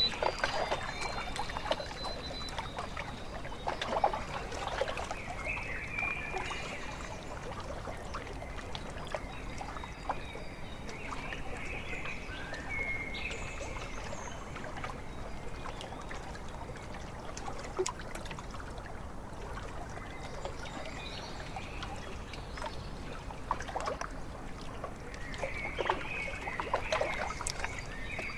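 Lakeside ambience: small waves lapping and trickling at the shore over a steady background hiss. Short high bird calls come and go, mostly near the start and again near the end.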